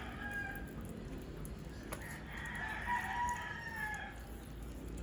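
A rooster crowing twice: one crow tailing off about half a second in, and a second, longer crow from about two to four seconds in.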